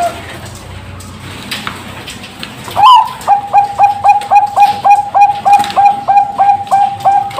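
Bangkok-type perkutut (zebra dove) singing: after a pause of a few seconds, a sharp rising note about three seconds in opens a fast, even run of short coos, nearly three a second.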